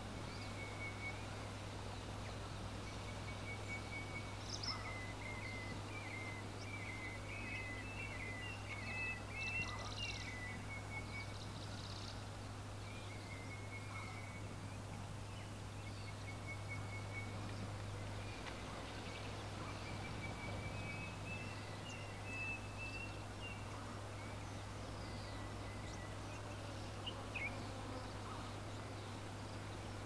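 Small birds chirping and twittering in short runs of quick high notes, busiest in the first third, over a steady low hum of outdoor background noise.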